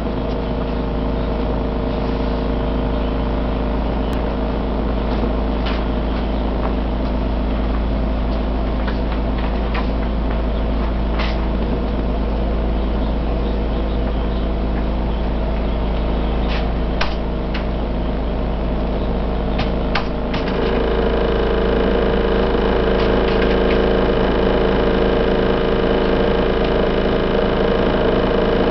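Heavy construction vehicles and a road roller working back and forth over a stretch of roadway: a deep, steady, earthquake-like rumble under diesel engine hum, with a few sharp knocks. About 20 seconds in, the engine noise grows louder and takes on higher tones.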